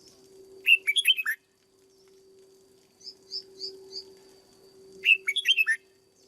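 Red-whiskered bulbul singing: two short, quick phrases of warbled notes about four seconds apart, with four softer high chirps between them, over a faint steady hum.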